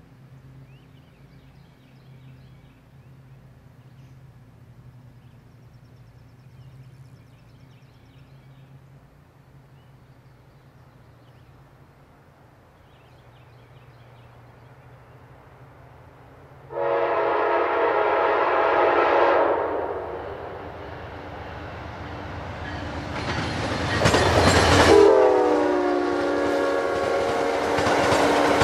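Amtrak P42 diesel locomotive horn sounding a long blast about 17 s in as the train approaches. A second blast drops in pitch as the locomotive passes at speed about 25 s in, followed by the steady rush and clatter of the passenger coaches rolling by.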